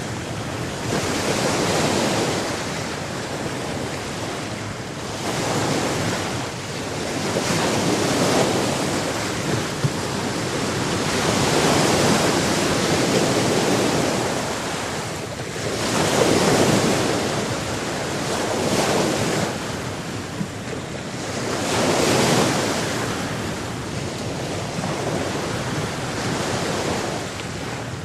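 Sea surf: waves breaking and washing onto the shore, swelling and falling away every few seconds.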